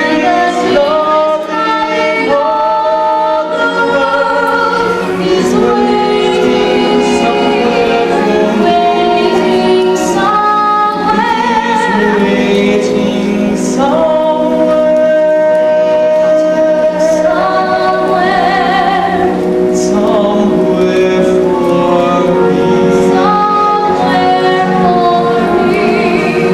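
Live musical-theatre duet sung over musical accompaniment, with long held notes that waver with vibrato.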